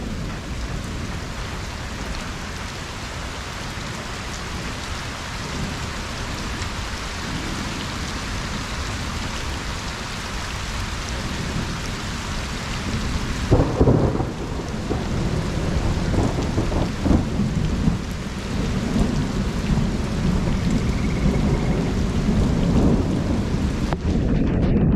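Rain falling steadily on a pond's surface. About halfway through, thunder breaks in suddenly and rumbles on in low rolling waves to the end.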